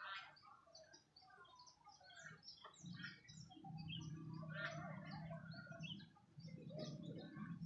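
Many small birds chirping in overlapping short calls, faint, with a low steady hum underneath from about three seconds in.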